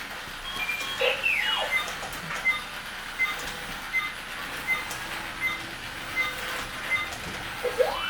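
Robot-style electronic whistles and beeps: a falling whistle about a second in, a regular run of short high beeps about once every three-quarters of a second, and a rising whistle near the end, typical of an R2-D2 toy's sound effects.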